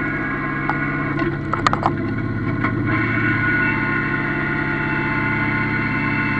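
Yanmar F16D mini-tractor's diesel engine running steadily, with a few sharp metallic clicks and rattles about a second and a half in.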